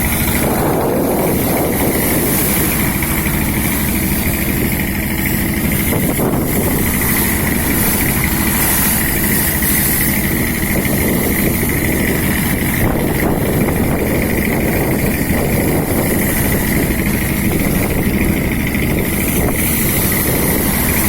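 A Juwana fishing boat's inboard engine running steadily at a constant speed, with a steady high-pitched whine over the engine's drone.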